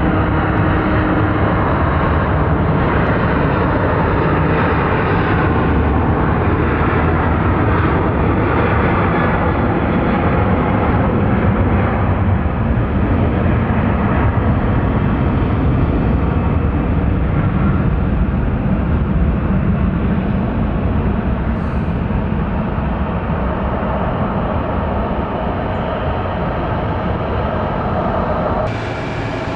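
Jet airliner engines running loud and steady, a dense rumble and roar that slowly fades over the last third.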